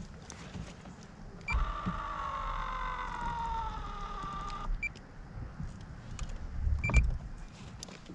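A small electric motor whines for about three seconds, its pitch sinking slightly, starting and stopping with a click. A thump follows near the end.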